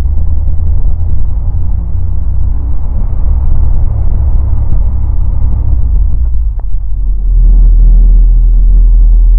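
Light aircraft's engine and propeller droning steadily in flight, heard inside the cockpit as a loud low rumble. About seven seconds in, the lowest part of the rumble becomes heavier and steadier.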